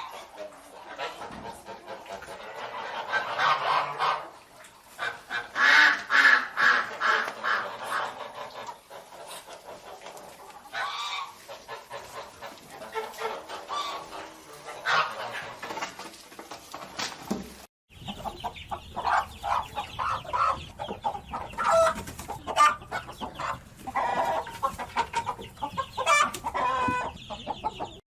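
Domestic fowl calling with many short, repeated clucks and squawks, in two stretches separated by a brief break about two-thirds of the way through.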